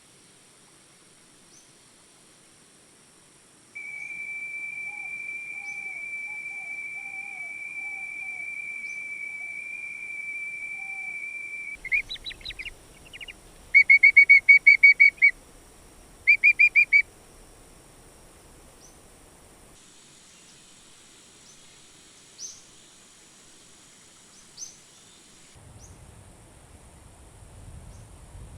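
A high, pure whistled animal call held on one steady note for about eight seconds. It breaks off into quick stuttering notes, then two loud bursts of rapid pulsed notes at the same pitch. A constant thin high-pitched insect hum runs underneath.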